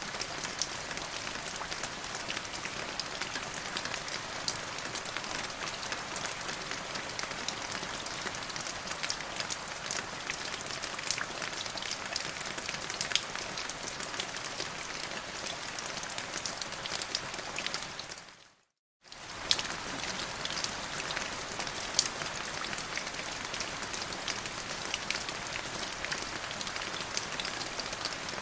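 Steady rain falling on a surface, a continuous hiss with many separate sharp drop hits. About two-thirds of the way through it fades out to silence for under a second, then comes straight back.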